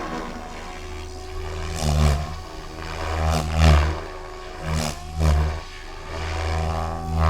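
Goblin 630 electric RC helicopter flying: a steady motor and rotor hum with repeated loud whooshing surges of rotor noise, about every second or so.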